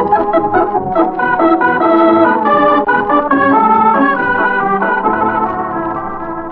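Organ music bridge between scenes of a radio comedy: a quick run of held chords and moving notes that sinks in level toward the end.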